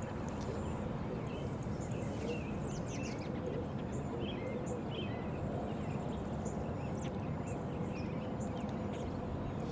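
Small birds chirping over a steady low outdoor rumble, with a faint steady tone underneath.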